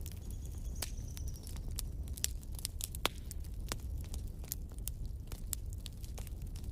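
Wood fire burning in a fireplace: logs crackling and popping with irregular sharp snaps over a steady low rumble of flame. A faint high whistle sounds for the first second or so.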